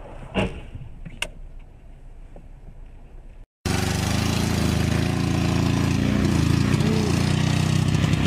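A dull thump and a sharp click over a quiet car hum. Then an old sedan's engine runs loud and rough, revving as the car pulls away across a dirt field, with a rising rev about halfway through.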